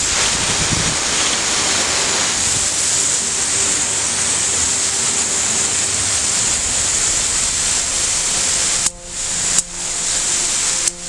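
Garden water hose spraying in a steady, loud hiss, cut briefly twice near the end.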